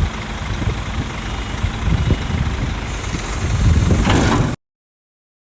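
Scania truck's diesel engine idling with a low rumble. A brief rushing noise comes about four seconds in, then the sound cuts off abruptly.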